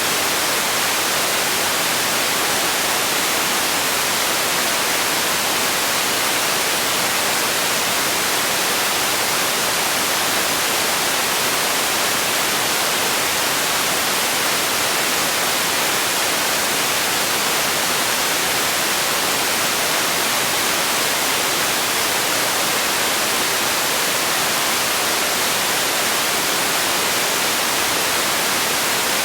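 Steady, unchanging hiss of white noise, brighter in the treble than in the bass.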